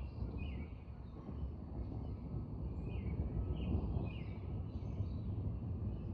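Birds chirping in short calls, a few times through the stretch, over a steady low rumble.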